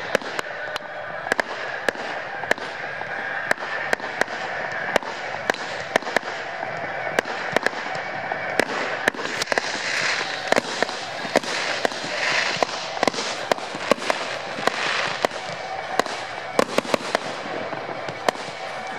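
Fireworks display: sharp bangs of bursting shells, two or three a second, over a steady rushing background.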